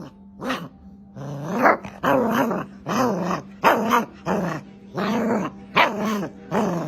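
A dog giving a string of drawn-out, growly barks, about one every half to three-quarters of a second, louder from about a second in.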